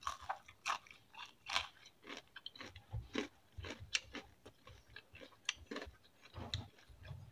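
A person chewing a mouthful of fried chicken, with irregular small crunches and mouth clicks.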